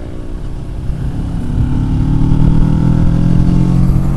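Motorcycle engine running under way and pulling harder, its pitch climbing slowly and the sound getting louder from about a second in, over a low wind rumble.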